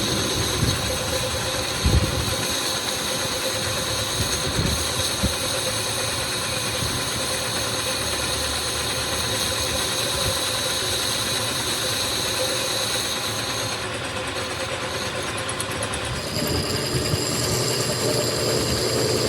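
An engine idling steadily, with a few sharp knocks in the first five seconds and a high whine that changes pitch near the end.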